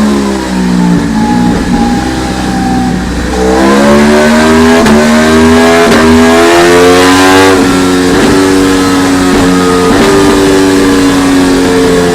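2017 Aprilia Tuono V4 1100 Factory's V4 engine on a dyno. The revs drop at the start and idle low for a few seconds, then climb steadily for about four seconds under throttle before falling sharply and holding at lower revs.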